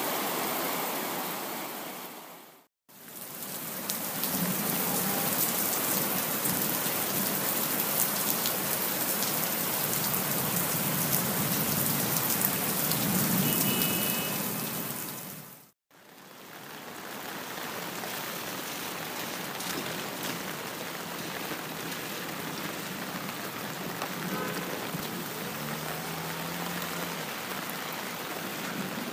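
Steady rain falling, an even hiss of many drops. It fades out to silence and back in twice, about three seconds in and again about sixteen seconds in, and the middle stretch is a little louder than the rest.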